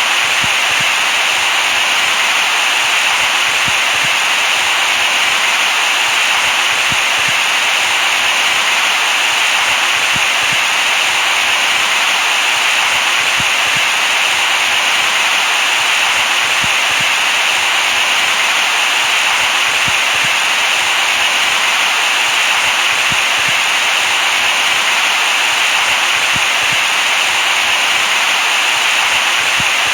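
Steady white noise: an even, unchanging hiss, strongest in the upper-middle range with little bass.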